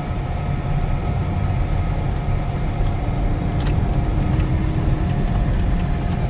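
Road and engine noise inside a moving car's cabin on rain-wet roads: a steady low rumble with a faint even tone, and a single click a little past halfway.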